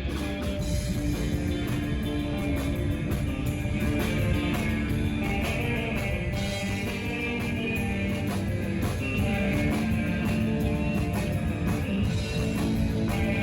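Live 1960s surf rock band playing: electric guitar over a drum kit, steady and continuous.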